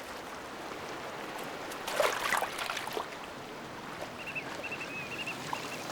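Sea water washing along a rocky shore, with a louder splash about two seconds in. From about four seconds in, a bird gives a quick series of short high chirps.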